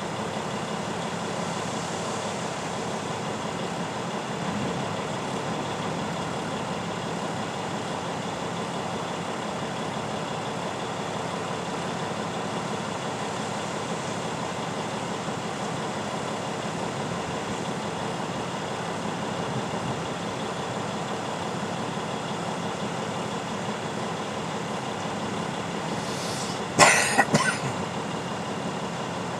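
A vehicle's engine idling with a steady hum, heard from inside the cab. Near the end comes a short, loud burst of a few sharp knocks within about a second.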